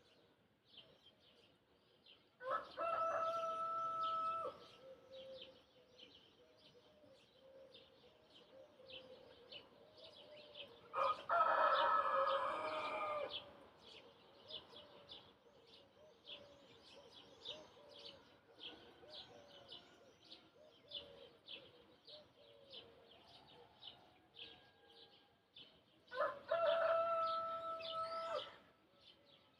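A rooster crowing three times, each crow about two seconds long, the middle one loudest, while small birds chirp continuously.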